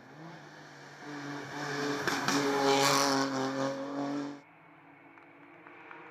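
Hill-climb race car engine at full throttle, growing loud as the car comes close, with a fairly steady engine note. It cuts off abruptly about four seconds in, leaving a fainter engine sound.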